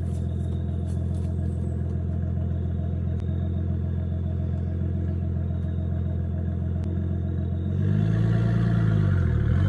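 Nissan Skyline R32's straight-six idling steadily through a straight-piped exhaust, with only the front cat left and the cat-back removed. About eight seconds in it gets louder and the engine note begins to fall and rise.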